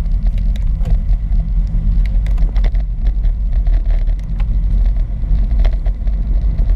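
Wind and road rumble on the microphone of a moving bicycle ride: a steady, loud low rumble with scattered light ticks and rattles.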